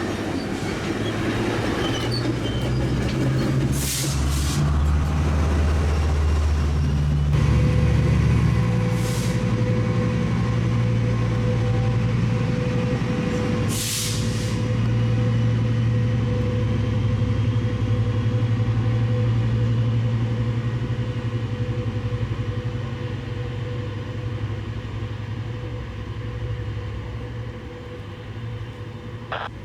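Diesel engine of a Metrolink MP36PH-3C passenger locomotive running under load as the train moves, its note stepping up twice in the first eight seconds, then slowly fading. Three short hisses of air break in during the first half.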